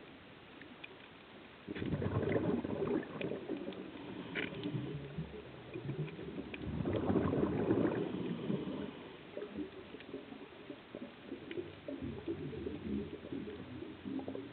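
Underwater bubbling of a scuba diver's exhaled breath from the regulator, two rushes of bubbles a few seconds apart, over a steady low hiss with scattered faint clicks.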